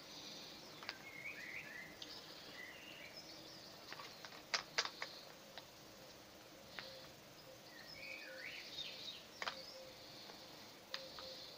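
Birds chirping now and then in two short spells over quiet outdoor background noise, with a few sharp clicks and taps, the loudest two close together about four and a half seconds in.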